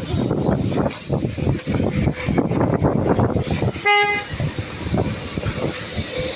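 Car-wash spray and clatter noise, with one short car horn toot about four seconds in.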